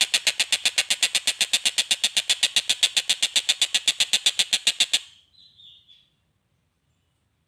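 A bird's rapid, even rattling call of about ten sharp notes a second. It stops abruptly about five seconds in, and a brief faint whistle follows.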